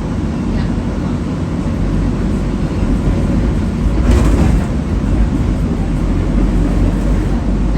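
An electric streetcar running along its rails, heard from inside the car: a steady low rumble, with a brief louder rushing noise about four seconds in.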